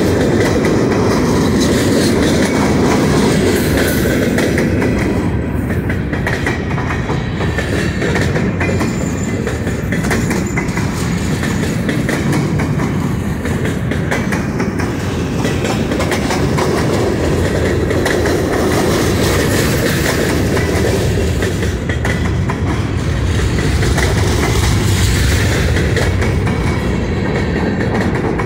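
Railroad cars rolling steadily past at close range: a continuous loud rumble of wheels on rail with many rapid clicks.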